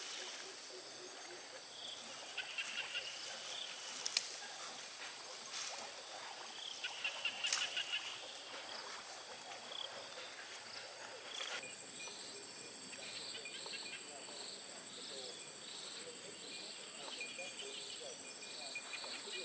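Insects in the countryside: a steady high-pitched drone sets in about halfway through, over regularly pulsing chirps. A few short animal calls come earlier, with scattered light clicks.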